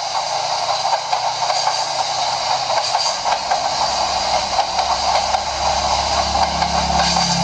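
N-gauge model train running on layout track: a steady, dense clatter of small wheels over rail joints, with a low hum that swells near the end.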